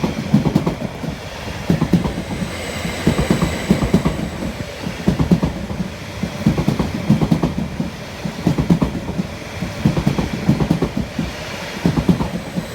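Stansted Express class 745 electric multiple unit passing through the station at speed, its wheels clattering rhythmically over the rail joints. A faint high whine runs under the clatter.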